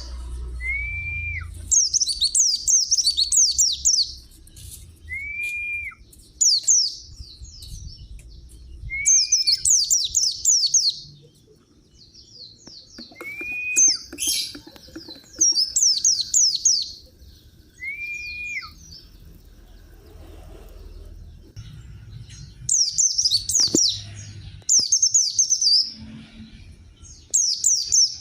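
A white-eye (pleci) singing: bursts of quick, high, falling chirps lasting a second or two, repeated with short gaps. In the first part a separate short whistled note, rising then falling, sounds about every four seconds between the bursts.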